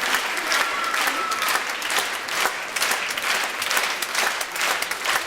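Audience applauding, dense and steady clapping from many hands.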